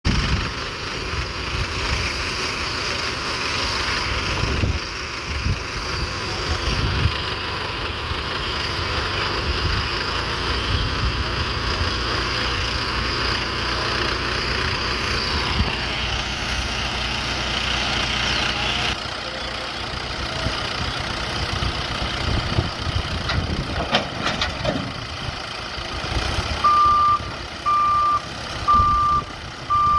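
JCB backhoe loader's diesel engine running as the machine works. Near the end its reversing alarm starts beeping, a single high tone about once a second.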